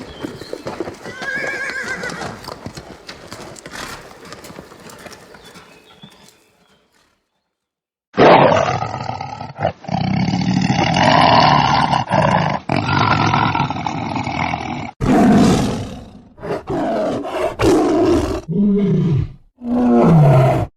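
Horse hooves galloping with a short whinny about a second and a half in, fading out after about six seconds. After a brief silence a big cat roars loudly in long calls, and the last few calls fall in pitch.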